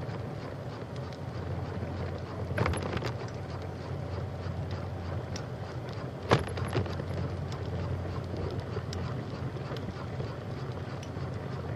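Riding noise from a bicycle on a trail: a steady low rumble with wind on the microphone, a short rattle about two and a half seconds in, and a sharp knock a little after six seconds.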